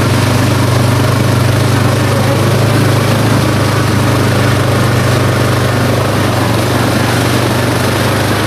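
ATV engine running steadily at an even pitch, heard close up.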